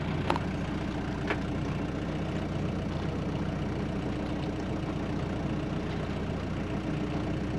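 Sailboat's auxiliary engine running steadily at an even low hum, motoring through a calm; two light clicks sound in the first second and a half.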